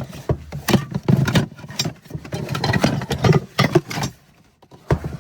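Irregular clatter of knocks and rattles for about four seconds, then two sharp knocks near the end.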